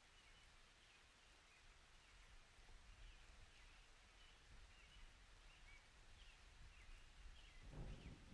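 Near silence with faint, scattered bird chirps over a low background hiss; a low rumble swells up near the end.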